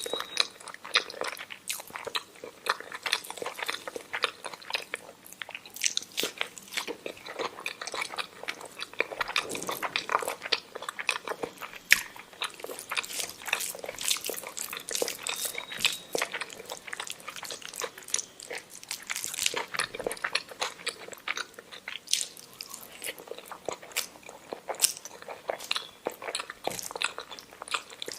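A person chewing and eating omelette with rice: continuous wet mouth sounds with many quick, irregular clicks.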